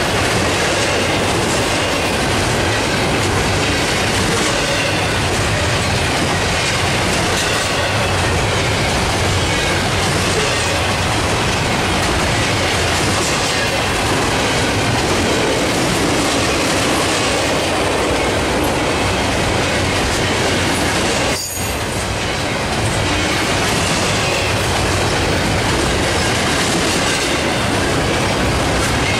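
Double-stack intermodal well cars of a freight train passing at speed: a steady, loud rolling noise of steel wheels on the rails, which dips briefly about three-quarters of the way through.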